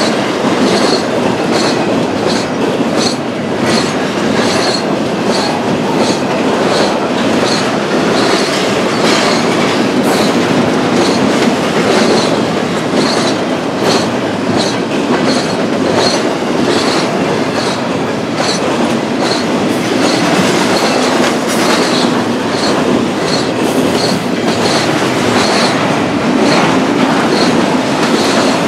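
BNSF intermodal stack train rolling past: a steady rumble of the cars with a regular clickety-clack of wheels over rail joints, about one and a half clicks a second.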